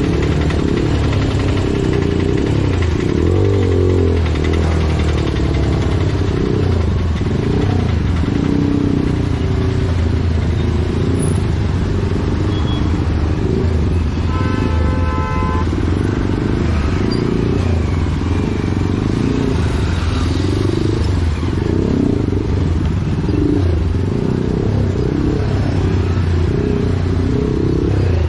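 Motorcycle running on the move in traffic: a steady, loud mix of engine and wind rumble. A brief steady pitched tone sounds about halfway through.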